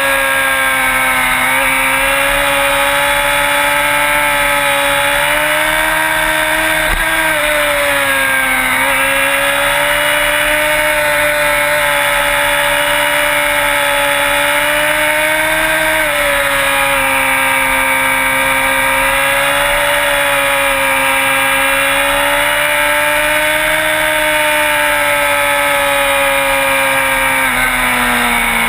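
Sport bike engine running at steady high revs, its pitch drifting gently up and down with small throttle changes, with a noticeable dip about seven seconds in and a drop near the end.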